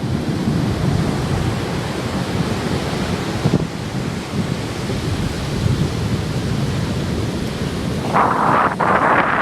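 Wind buffeting the microphone over the steady rush of ocean surf, with a louder hissing surge about eight seconds in.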